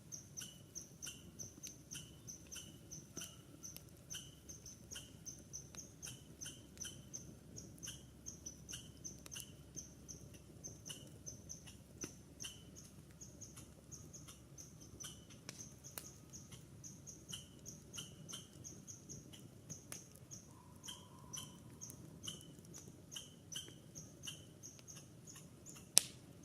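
Campfire crackling with scattered sharp pops, one much louder pop near the end, over a low steady rumble. Throughout, a steady series of short high chirps repeats about twice a second.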